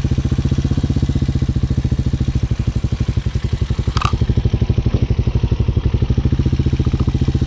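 Hawk 250 motorcycle's single-cylinder engine idling steadily with even firing pulses. A brief high chirp comes about four seconds in.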